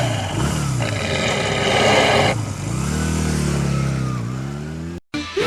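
Motorcycle engine revving, its pitch rising and falling several times, then cutting off abruptly near the end.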